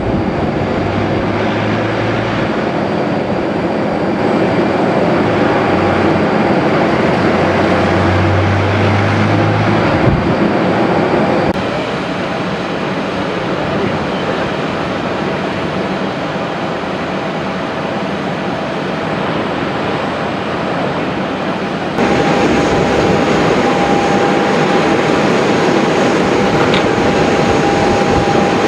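Steady jet engine noise of airliners landing, with a faint steady whine. The sound changes abruptly twice, as separate recordings follow one another.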